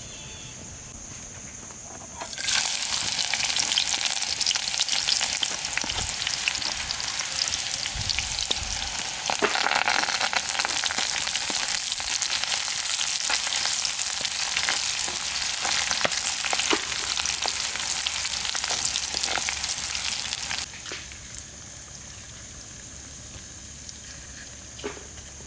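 Hot oil sizzling and crackling in a cooking pan as food fries, a dense hiss full of sharp pops. It starts suddenly about two seconds in and cuts off abruptly near the end.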